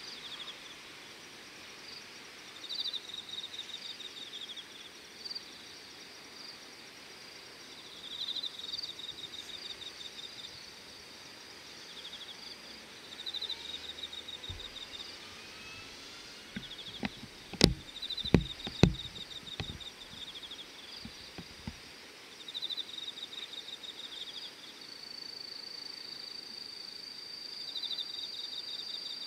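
Insects chirping in repeated high-pitched pulsed trills, each about a second long, with a steady unbroken trill in the last few seconds. A little past halfway come a handful of sharp knocks, the loudest sounds.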